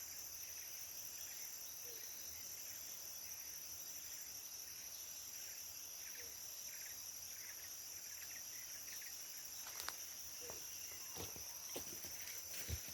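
Steady high-pitched drone of tropical forest insects, with a few sharp clicks or snaps in the last few seconds.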